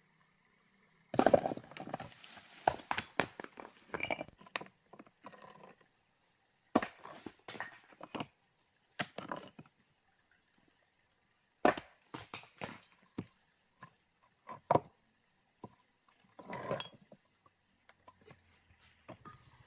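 Irregular knocks and clinks of hard objects striking one another, in bursts of several hits with pauses between.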